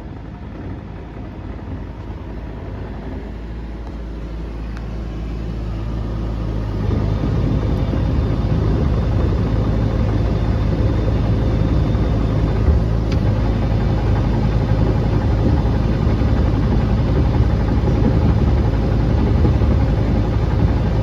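Small excavator running and travelling on its old tracks, growing louder over the first seven seconds and then steady. There is no clunking from the tracks, a sign that the clunk came from the broken set just removed.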